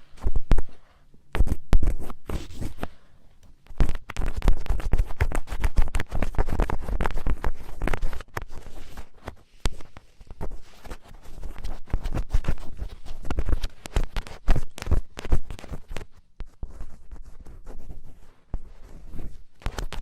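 Ear pick scratching hard against the ear of a microphone, in quick dense strokes with short pauses about a second in and around four seconds in, and softer strokes over the last few seconds.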